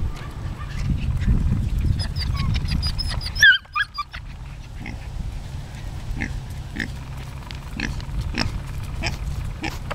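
Pet pig grunting, with a short high-pitched squeal about three and a half seconds in and a string of short calls after it.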